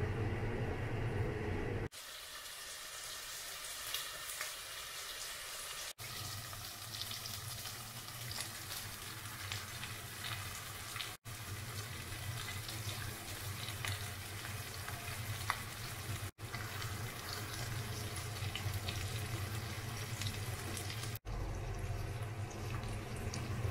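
Chicken thighs frying in a hot cast-iron pot, a fine crackling sizzle broken into several short stretches by brief cut-offs, over a steady low hum.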